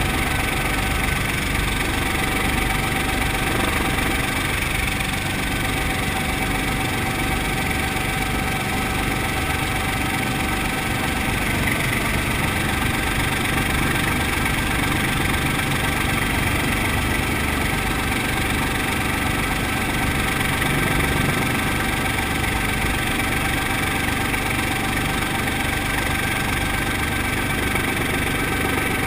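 Brantly B-2B helicopter's four-cylinder Lycoming piston engine and rotors running steadily, an even, unchanging drone.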